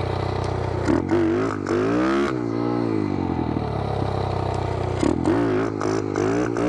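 Small single-cylinder four-stroke pit bike engine revving up and down several times, with rising and falling swells about a second in, at two seconds and near five seconds, over its steady running: throttle blips as the rider pops the clutch to lift into wheelies.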